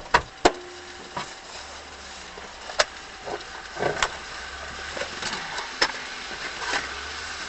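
Car engine idling with a steady low hum, with scattered sharp clicks and knocks a dozen or so times, the loudest right at the start.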